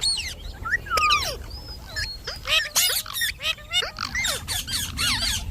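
Indian ringneck parrots calling in a rapid run of short squawks and chirps, many with quick sweeping pitch glides, plus a brief held whistle about two seconds in, over a steady low background rumble.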